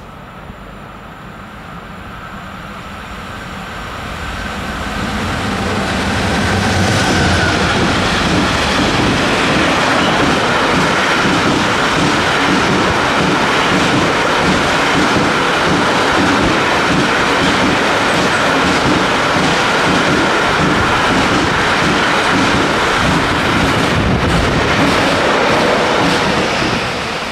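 Long intermodal freight train, hauled by Taurus electric locomotives, passing at speed. The sound builds over the first several seconds as the train approaches, then holds as a loud steady rumble with the rhythmic clatter of wagon wheels over the track, and eases off near the end.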